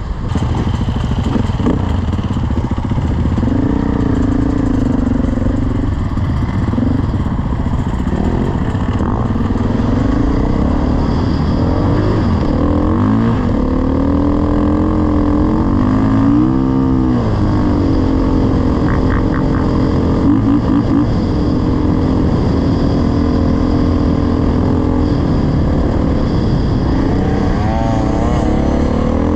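Dirt bike engine running under load as it is ridden, the revs rising and falling repeatedly with throttle and gear changes.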